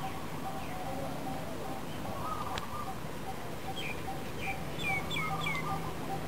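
Birds chirping outdoors over steady background noise, with a quick run of short, falling chirps about four to five seconds in.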